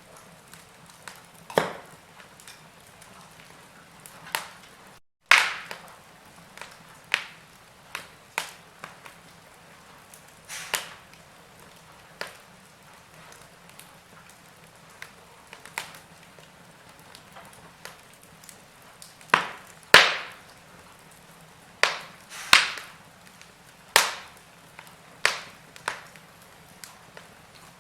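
Logs burning in a fireplace, crackling: irregular sharp pops and snaps over a faint low hiss. The loudest pops come in the second half.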